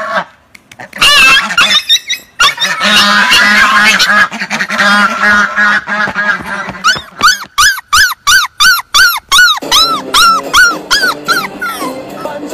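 Loud animal calls in quick succession, short rising-and-falling cries of about three a second, over background music.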